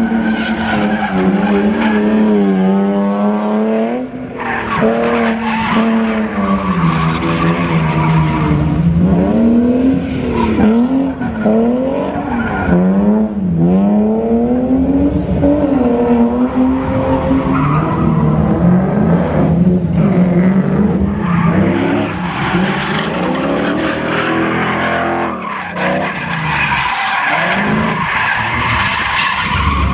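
Drift car's engine revving hard, its pitch rising and falling again and again as the throttle is worked through the drift, with tyres squealing and skidding.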